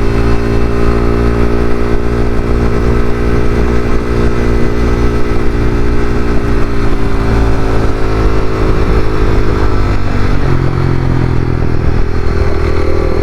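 Honda CBR300R's single-cylinder engine running at a steady low speed in slow traffic. Its pitch sags slowly, shifts about ten seconds in, and rises again near the end.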